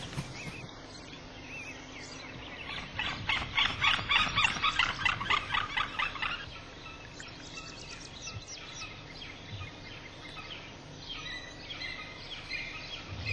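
Bird calling: a loud run of sharp notes repeated in quick succession, from about two and a half to six seconds in. Fainter, higher calls carry on after.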